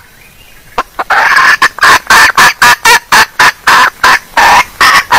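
Female junglefowl (wild jungle hen) giving a rapid run of loud clucking calls, about four a second, starting about a second in after a short quiet gap; the call is used by hunters as a lure.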